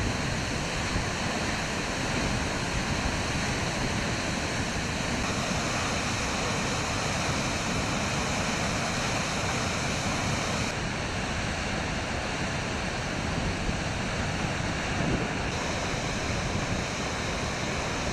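Düden Waterfall in flood after heavy rain, its muddy water pouring down in a steady, unbroken rush.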